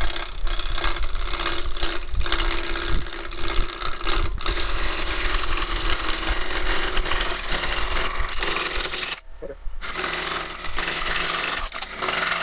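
5/8-inch bowl gouge roughing a spinning cherry bowl blank on a lathe: a loud, rapid, chattering scrape as the tool cuts the still out-of-round wood. The cut breaks off briefly about nine seconds in, then resumes.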